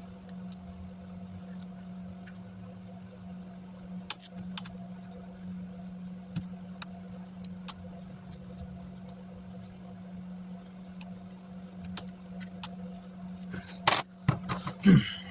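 Scattered small clicks and taps of hands handling laptop parts over a steady low hum, with a louder burst of clattering knocks near the end.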